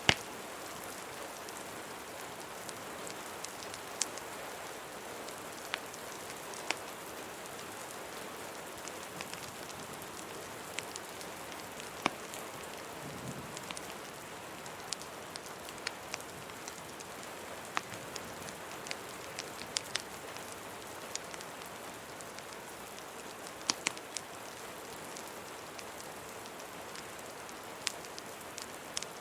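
Steady rain mixed with a crackling fireplace: an even rain hiss, with sharp pops and crackles scattered irregularly through it.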